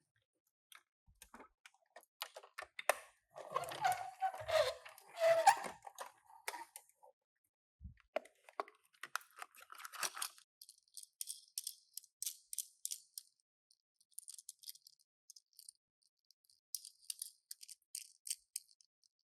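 Toy car packaging being opened and handled: crinkling and crackling, loudest a few seconds in, then light scattered rustles and small clicks.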